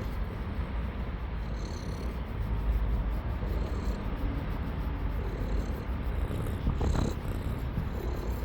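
Cat purring steadily, with a brief higher sound about seven seconds in.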